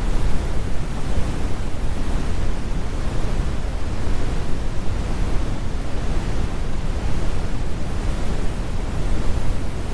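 Synthetic brown noise: a steady, deep rumble of even hiss, heaviest in the bass, with the high frequencies rolled off.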